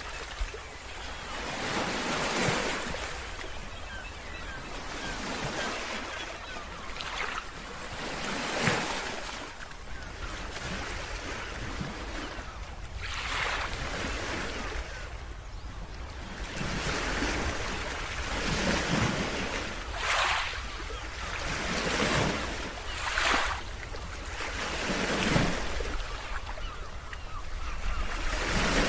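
Wind gusting through a bamboo grove, the leaves rustling in swells that rise and fade every couple of seconds, over a steady low rumble of wind on the microphone.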